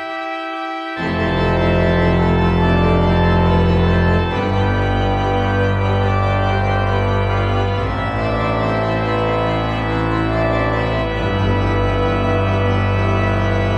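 Organ playing a pop-song cover: sustained chords over a deep held bass, the full sound coming in about a second in.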